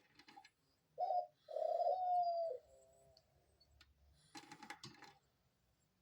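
A dove cooing: one short low note, then a longer held coo. About four seconds in comes a brief burst of rapid clicking and scratching.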